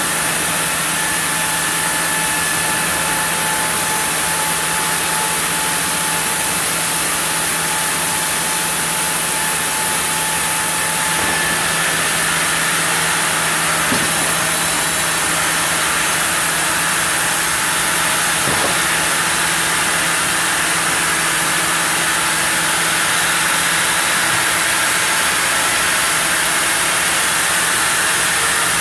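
Sawmill saw running steadily as it cuts a block of zelkova, a loud continuous machine noise with a steady low hum under it.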